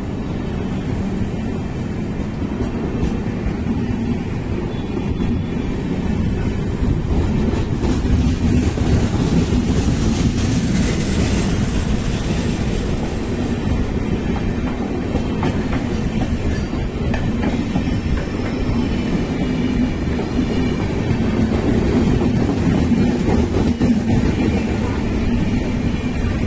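LHB express passenger coaches rolling past at speed: a steady, loud rumble of steel wheels running over the rails.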